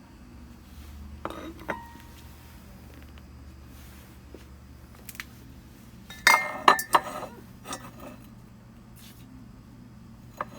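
Dishware clinking as it is handled: a couple of clinks with a short ring about a second and a half in, a quick cluster of clinks past the middle, and one more near the end.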